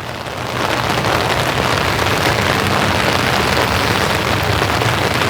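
Steady rain falling, an even hiss that grows a little louder about half a second in and then holds steady.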